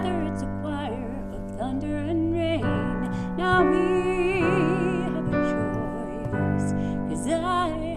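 Two women singing a slow ballad in held notes with vibrato, over piano accompaniment.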